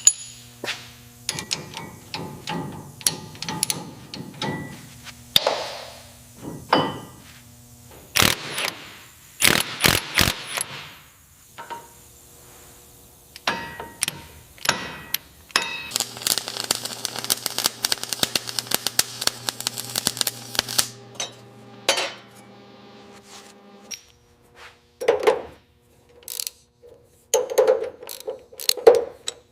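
Workshop sounds of hand tools on metal suspension parts: irregular clinks, knocks and taps. A steady low hum runs under them and stops about three-quarters of the way through, and there is a stretch of hissing a little past halfway.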